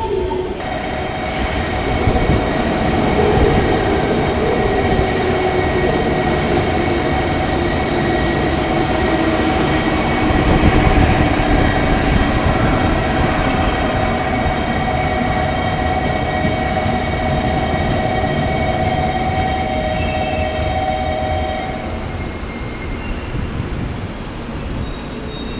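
A train moving at a station platform: a steady low rumble with whining tones, one slowly falling in pitch. High-pitched squealing comes in near the end.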